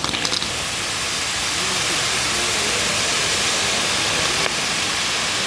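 Fireworks going off in a dense, steady hiss, opening with a brief rapid crackle. Crowd voices are faint underneath.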